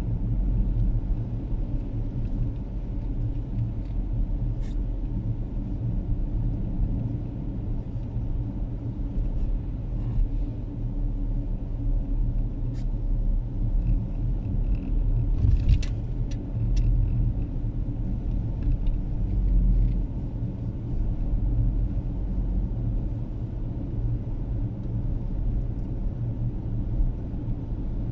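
Steady low rumble of a car heard from inside the cabin while driving on a snow-covered road, with a few faint clicks around the middle.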